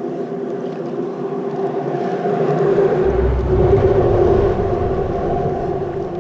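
Boat motor running with a steady hum, swelling louder in the middle with a low rumble underneath.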